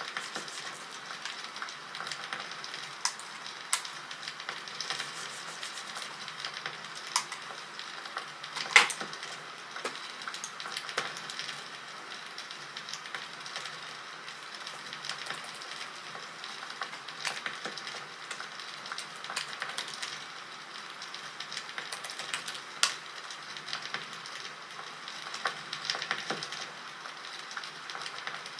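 Wood fire crackling: a steady hiss with irregular snaps and pops, one sharp loud pop about nine seconds in.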